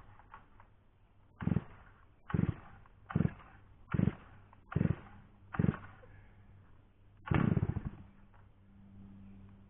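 Large Holzforma G660 chainsaw being pull-started: six quick cord pulls about a second apart, each turning the engine over briefly without it catching. A longer sputter follows a couple of seconds later, then a faint steady hum.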